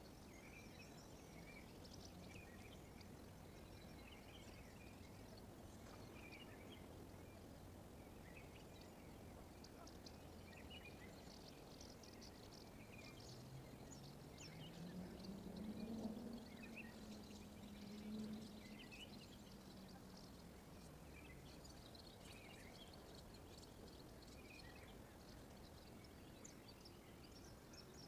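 Faint outdoor ambience with small birds chirping here and there. A low hum rises in pitch, swells briefly past the middle, then fades away, like a distant engine passing.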